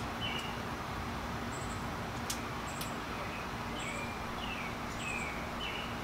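Songbirds chirping, short falling calls repeated about once a second with a few higher notes, over a steady low hum and background noise.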